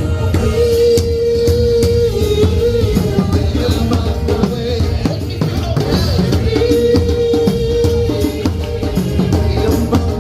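A performer singing a sing-along song over a backing track with a steady drum beat, holding long notes twice.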